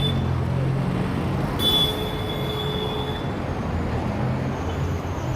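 Heavy city traffic: the steady low rumble of engines from cars and larger vehicles. A high squeal starts with a brief louder moment about a second and a half in and lasts under two seconds.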